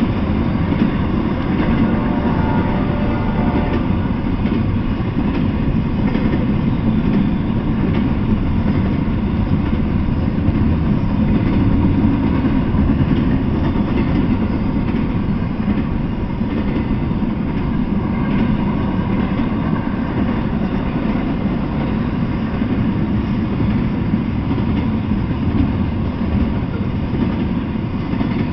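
Double-stack intermodal freight train rolling past: the steady, loud rumble of its well cars' wheels on the rails, with faint clicks.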